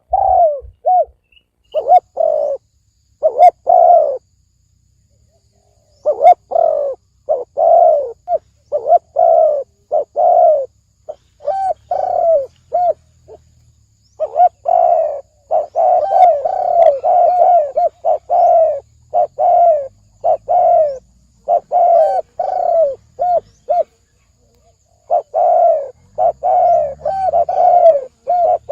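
Spotted dove cooing over and over in deep 'thổ sấm' style phrases, each a run of short falling coos, with short pauses between phrases.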